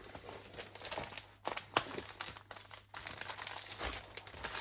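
Plastic packaging crinkling and rustling as it is handled, with irregular small clicks and knocks.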